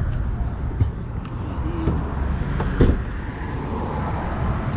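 Single-turbo BMW 135i inline-six idling with a steady low, pulsing rumble, plus a few sharp clicks, the loudest nearly three seconds in.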